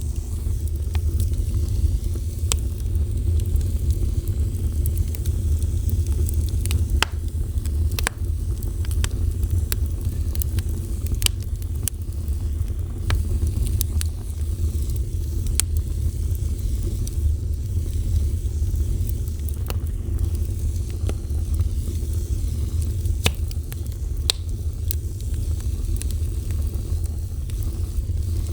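A fire burning, with a steady low rumble and sharp crackles and pops scattered every second or two.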